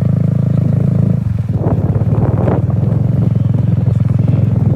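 Mini bike engine running steadily under way, its note dipping briefly about a second in before it picks back up.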